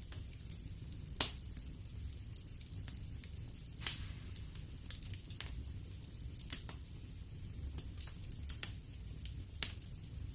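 Wood fire in a fireplace crackling, with irregular sharp pops and snaps over a low, steady rumble of burning. Two pops, about a second in and just before four seconds, stand out as the loudest.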